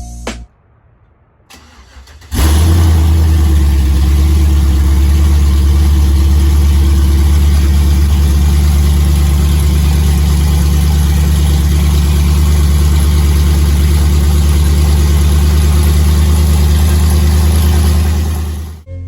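Car engine fitted with aftermarket headers starting up about two seconds in and then idling loudly and steadily with a low, even rumble until shortly before the end.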